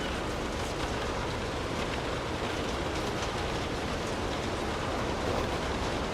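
Steady rainfall, an even hiss with scattered individual drop ticks.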